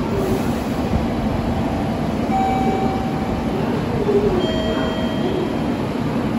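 Station platform noise of trains: a steady low rumble, with two short steady tones about two seconds apart, the second a little lower in pitch.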